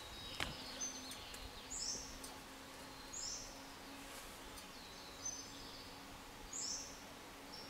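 Woodland birds calling: one repeats a short, high two-part call every second or two, and brief thin whistles come from another. Underneath runs a faint steady low hum, and a light tap sounds about half a second in.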